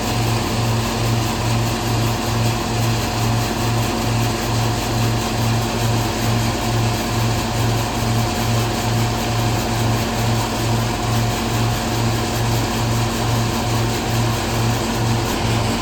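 Hazelnut threshing machine (patoz) running steadily under power, its motor throbbing in an even beat about two and a half times a second over a continuous mechanical hum.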